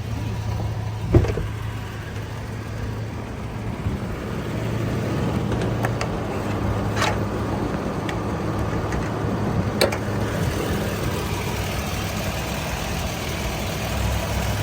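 2015 Toyota Tacoma's engine idling steadily, with a thump about a second in and a few sharp clicks later.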